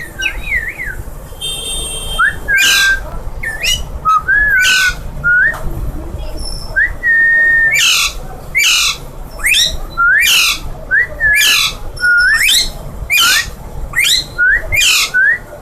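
Female Alexandrine parakeet screeching over and over in harsh, rising calls, about one a second in the second half, mixed with short whistled notes.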